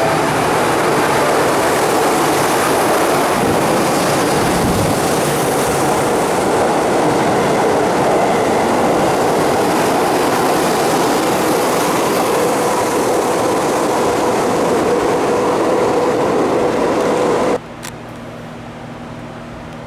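A Keihan 8000 series electric train running along an underground station platform, a loud steady rush of wheels and running gear. About three-quarters of the way in it cuts off suddenly, leaving a quieter steady station hum.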